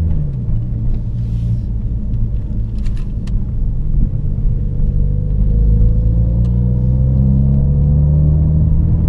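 Ford Focus RS 2.3-litre turbocharged four-cylinder with the muffler cut out and replaced by plain pipe, heard inside the cabin while pulling away gently. A loud, low exhaust rumble dips in pitch right at the start, then rises steadily from about four seconds in as the car gathers speed.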